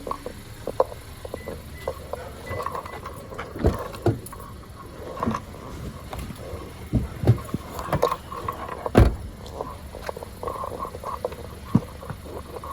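Car being driven, heard from inside the cabin: a steady low road-and-engine rumble with scattered knocks and thumps, the strongest about four, seven and nine seconds in.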